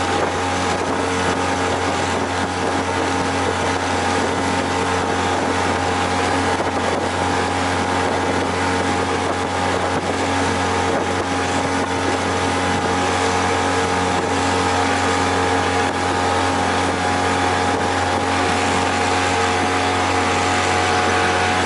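Freshly overhauled outboard motor pushing a small boat along at a steady cruising speed, running smoothly and evenly, with water and wind noise.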